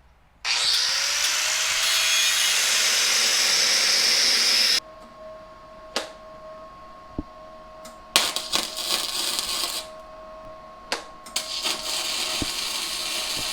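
Metal fabrication. A power tool winds up and grinds steadily for about four seconds, then cuts off. After that a quieter steady hum runs, broken by two longer crackling stretches of welding.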